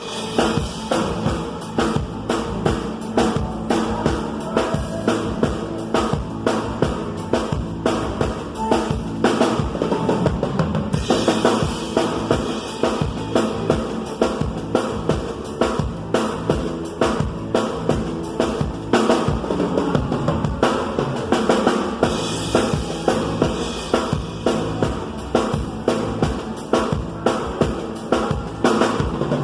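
Live band music led by a drum kit: a steady, fast beat of bass drum and snare under bass and other instruments.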